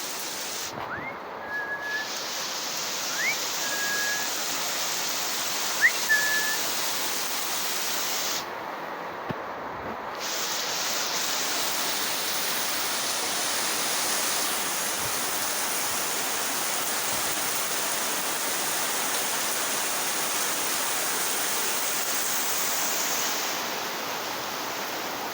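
Heavy rain pouring down, a dense, steady hiss. In the first few seconds a handful of short high whistles come through it, some rising.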